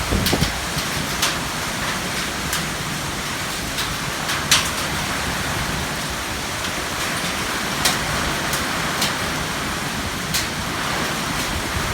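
Heavy rain falling steadily, with sharp drop impacts ticking now and then, the loudest about four and a half seconds in.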